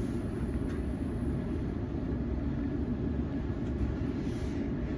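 Steady low rumble and hum inside a Sydney Trains Waratah electric passenger carriage.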